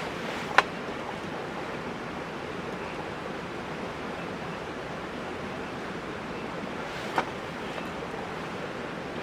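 Steady rushing hiss of an outdoor cooking fire with two sharp pops, one under a second in and another about seven seconds in.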